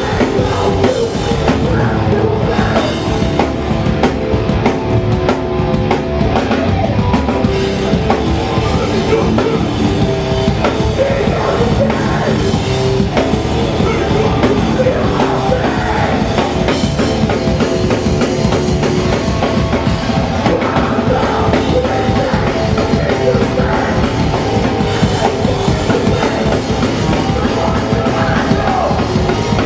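Hardcore punk band playing live and loud: drum kit, electric guitars and bass, with shouted vocals over them.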